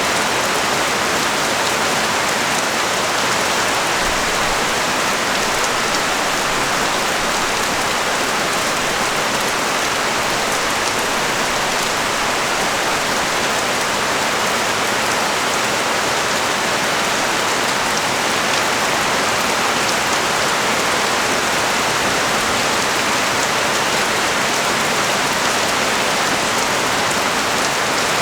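Heavy rain pouring steadily onto a street and surrounding surfaces, a dense even hiss with no letup.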